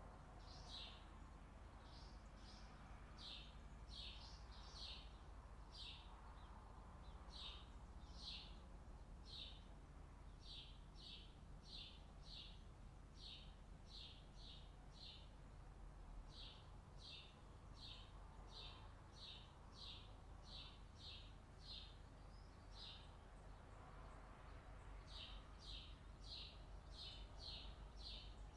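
Faint, repeated short high chirps from a bird, about one to two a second, going on through with a couple of short pauses.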